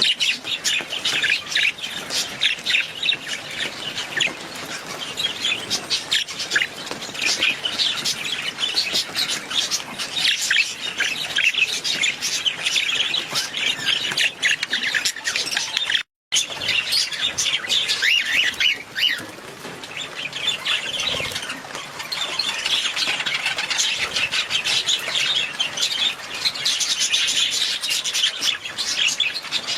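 Budgerigars chirping and chattering continuously, many quick overlapping calls at once, with a brief break about halfway through.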